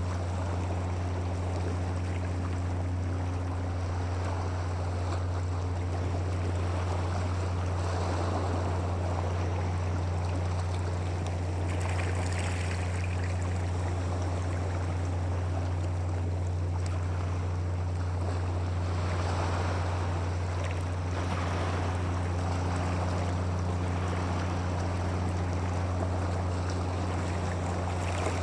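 Steady rushing of running water over a constant low hum.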